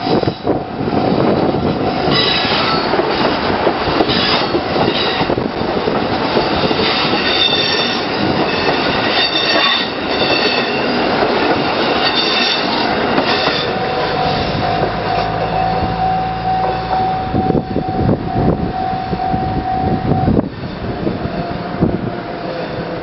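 A KiHa 75 diesel railcar train rumbling slowly across a railway bridge, with wheels clattering and squealing high on the rails through the first half. Later a steady tone holds for several seconds over the rumble.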